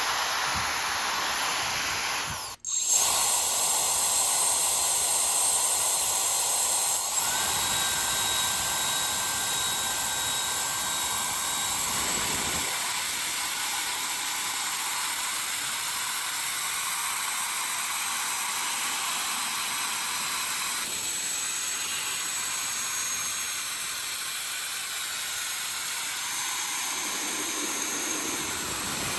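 A small high-speed electric motor running with a steady airy hiss and faint whine. It cuts out for a moment about two and a half seconds in, then carries on.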